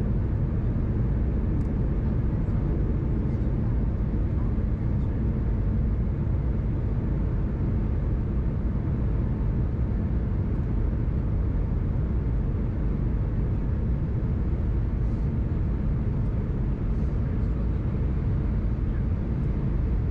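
Steady cabin noise of an Airbus A319 in flight, a constant low rumble of engines and airflow.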